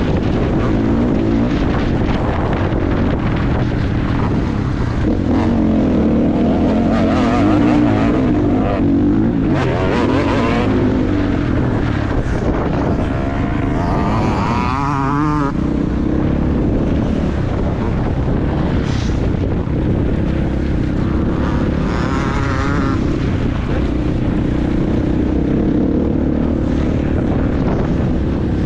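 Motocross bike engine running hard on the track, its pitch rising and falling with throttle and gear changes, with rushing noise throughout.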